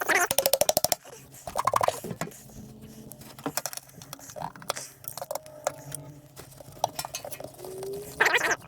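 Ratchet wrench clicking in a fast run for about a second, taking out the valve cover bolts, then scattered light metal clinks of tools and parts.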